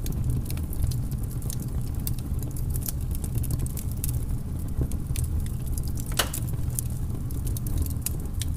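Flat brush scrubbing acrylic paint in circular strokes over textured canvas paper: a steady low scrubbing noise with many small scratchy ticks, one sharper than the rest about six seconds in.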